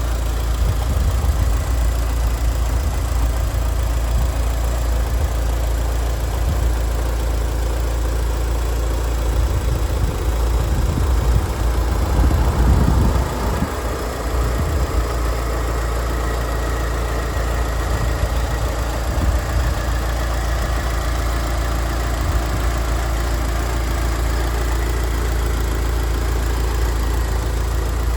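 Mitsubishi Lancer Evolution Tommi Makinen's turbocharged 2.0-litre four-cylinder engine, fitted with an induction kit, idling steadily with the bonnet open.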